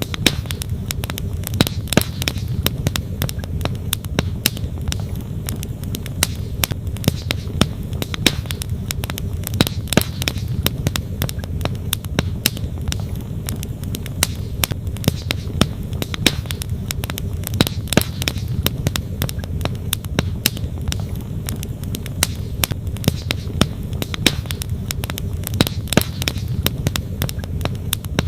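Wood campfire crackling and popping, with many irregular sharp snaps of varied strength, over a steady low rumble.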